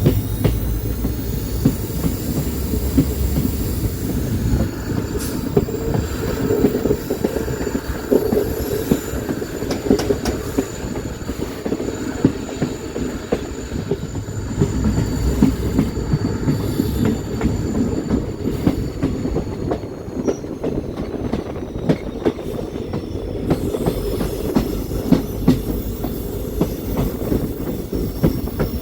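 Passenger train running along the track, heard from on board: a steady low rumble with rattling and clicking from the wheels over the rails. Thin high wheel squeal is held for long stretches and dips in pitch about two-thirds of the way through.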